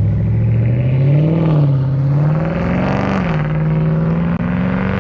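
Car engine running, its pitch rising and falling twice as the revs come up and drop back, then settling steady.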